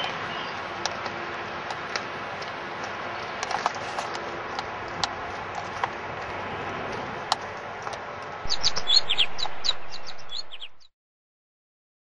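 Small birds chirping over a steady rushing hiss: short, scattered chirps at first, then about eight and a half seconds in a louder flurry of quick, falling chirps for about two seconds before the sound cuts off to silence.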